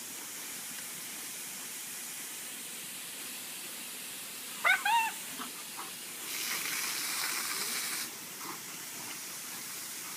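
Water spray hissing steadily, louder for about two seconds past the middle. A German Shepherd gives one short, high, rising-and-falling whine about halfway through.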